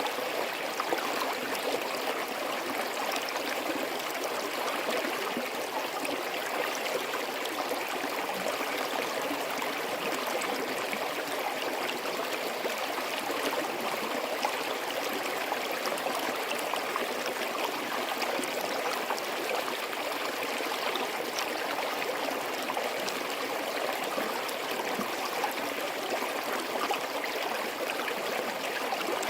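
Forest stream flowing over rocks, a steady babbling rush of water with fine gurgles and trickles throughout.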